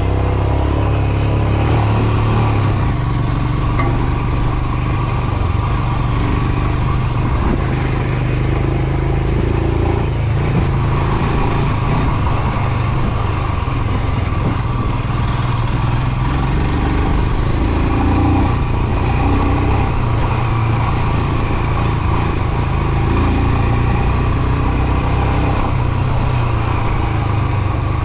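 Royal Enfield Himalayan's 411 cc single-cylinder engine running steadily while the motorcycle is ridden, with a continuous rush of road and air noise over it.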